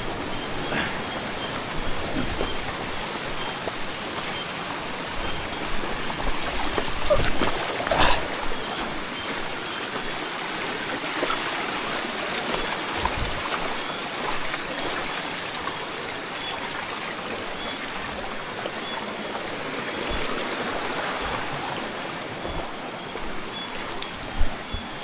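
Creek water running steadily over rocks, an even rushing hiss, with a few brief knocks over it, the loudest about eight seconds in.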